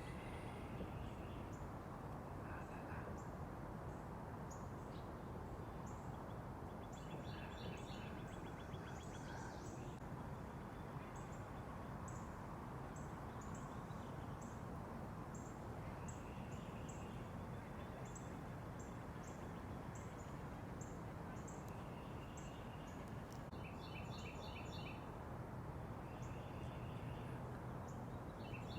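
Small backyard songbirds calling over a steady low background rumble: a long run of thin, high single chirps, one or two a second, and a short trilled phrase every several seconds.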